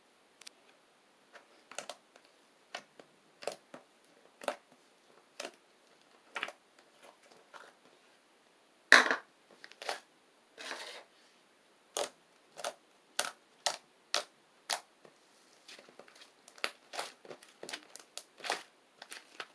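Fluffy shaving-foam slime being squeezed and pressed by hand, giving sharp sticky pops and crackles at irregular intervals. They come about one a second at first and more thickly near the end, and the loudest pop is about nine seconds in.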